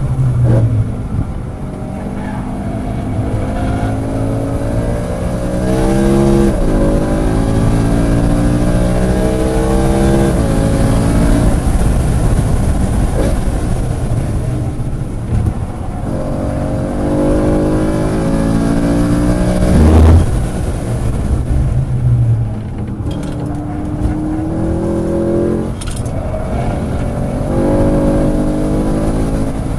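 A track car's engine under hard acceleration, its pitch climbing through the revs again and again and dropping at each gear change or lift. There is a sharp thump about two-thirds of the way in.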